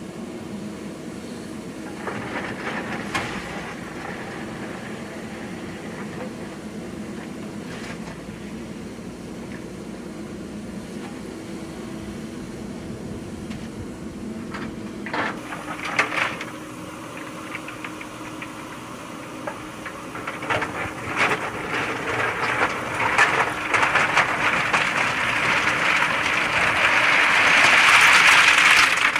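JCB 3DX backhoe loader's diesel engine running steadily, with a few clanks partway through, growing louder and harsher over the last several seconds as the machine works.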